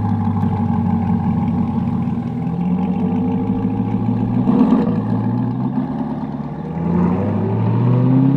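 Chevrolet C8 Corvette's mid-engine V8 through a straight-through AWE Track cat-back exhaust. It runs steadily at first, then the revs rise and fall, with a sharp blip about halfway, and climb again near the end.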